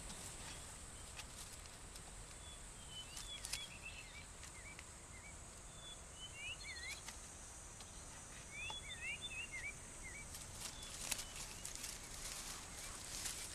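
Faint forest ambience: a small bird gives short, quick chirps that rise and fall, in three brief runs, over a steady high-pitched hiss.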